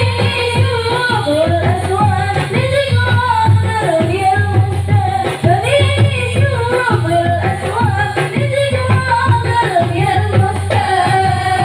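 Live music: a voice singing a winding melody over a steady, evenly repeating low drum beat.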